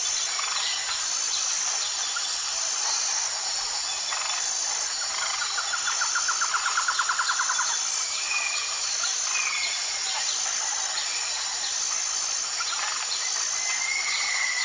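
Outdoor natural ambience: birds calling over a steady, high insect drone that pulses about once a second. A rapid trill starts about five seconds in and lasts between two and three seconds, followed by a few short separate chirps.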